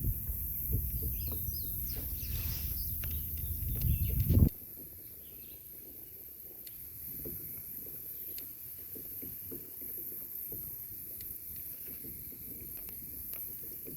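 Heavy, uneven low rumble on the microphone that cuts off abruptly about four and a half seconds in, leaving quiet outdoor ambience with a few faint bird chirps, light scattered clicks and a steady high hiss.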